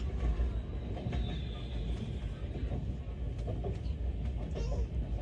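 Steady low rumble of a moving express train heard from inside a coach: wheels running on the rails.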